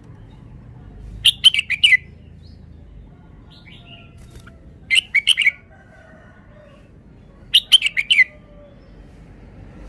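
Red-whiskered bulbul singing three short phrases of quick notes, about three seconds apart.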